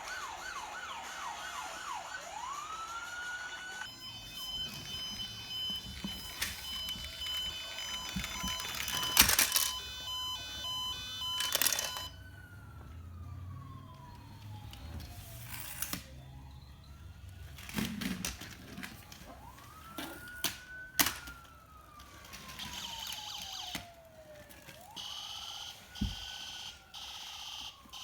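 Toy police car's electronic siren sounding, in slow rising and falling wails with a quick yelping pattern at the start. Several sharp knocks come through it, and a pulsing beep sounds near the end.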